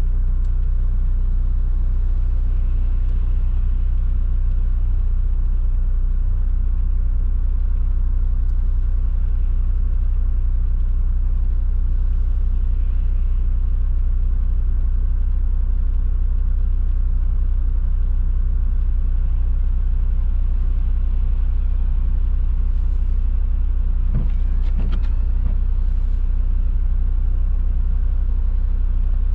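Steady low rumble of a car driving on a wet road, as heard inside the car: road and engine noise. A brief faint higher flutter comes near the end.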